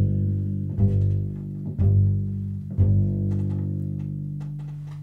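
Instrumental passage of a song: four low bass notes struck about a second apart, each ringing on, the last one fading out slowly.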